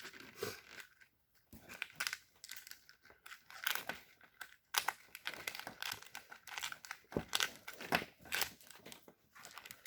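Three-quarter-inch plastic split loom tubing being handled and fitted over a wiring harness: irregular crinkling, rustling and small clicks.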